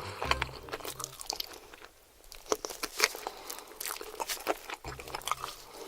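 Close-miked crunchy bites and chewing of chicken, a dense run of sharp crackles with a short lull about two seconds in.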